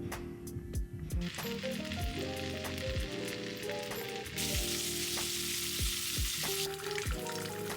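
Food sizzling as it fries in a pan, growing much louder for about two seconds midway, over background music with a steady beat.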